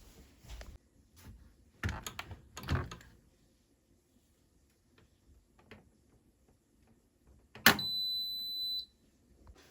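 Two dull knocks, then a sharp click followed at once by a single high electronic beep of about a second, the loudest sound, from a kitchen appliance.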